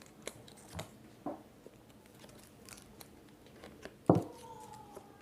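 Paper being handled and pressed while glued paper tails are stuck onto paper bird cut-outs: faint scattered clicks and rustles, with one sharper knock about four seconds in.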